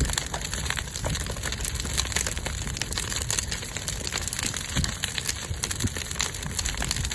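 Large bonfire burning, crackling steadily with many small pops over a low rumble.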